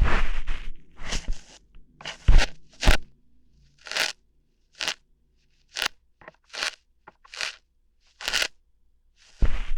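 Ear hairs being plucked out one at a time, close to the microphone: short crackling pops, irregularly spaced about once or twice a second, with a longer rustle at the start and another shortly before the end.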